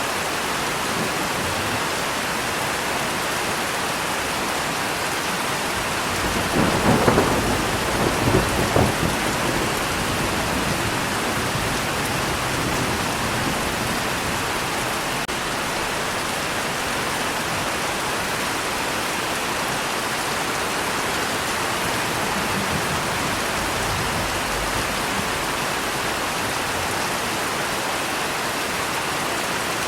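Steady rain falling, with a roll of thunder about six seconds in that swells twice and dies away within a few seconds.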